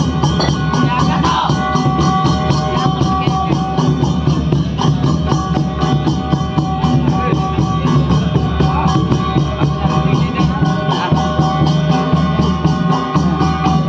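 Danda Nacha folk music: drums and jingling percussion keep a steady, even beat under a few held melody tones.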